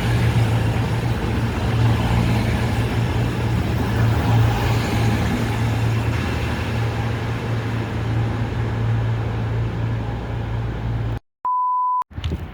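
Diesel engines of a Class 220 Voyager train running with a steady low drone. About eleven seconds in the sound cuts off suddenly and a short steady electronic beep sounds for about half a second.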